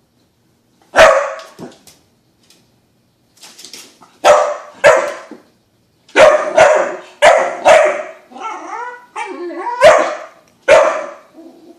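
A dog barking: about ten sharp, loud barks in uneven bursts, with softer, lower vocal sounds between barks around eight to nine seconds in.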